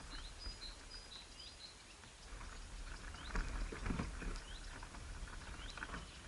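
Small birds chirping: a quick run of short high notes in the first couple of seconds, then single upward-hooked chirps about once a second, over scattered rustling and tapping and a low rumble.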